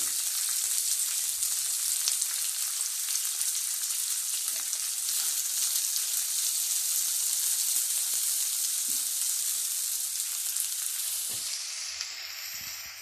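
Chopped onions frying in hot oil in a pan, a steady sizzle with faint clicks of stirring; the sizzle eases near the end.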